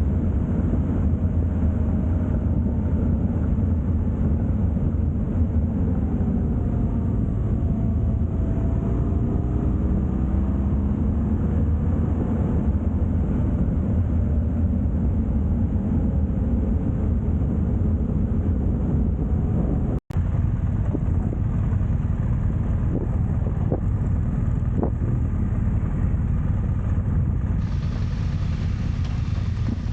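Motorcycle on the move: steady engine and wind rush on the microphone, with a faint engine note rising and falling in pitch. A very brief dropout about two-thirds of the way through.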